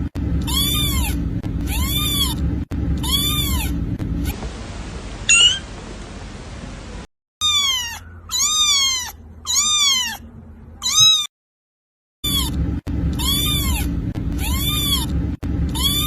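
Kitten meowing over and over: short meows that rise and fall in pitch, about one a second, in several spliced clips with brief silent gaps between them and a steady low hum under some of them.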